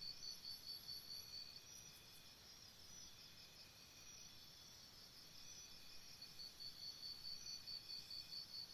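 Faint cricket chirping: a high, even pulsing of about five chirps a second that fades down in the middle and comes back strongly after about six seconds.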